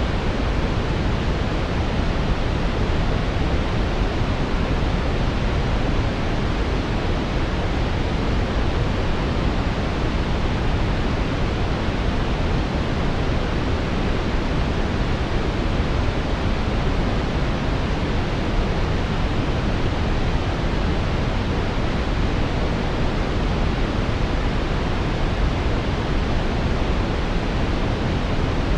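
Steady synthetic brown noise: an even, deep rushing hiss, strongest in the lows and fading toward the highs, unchanging throughout.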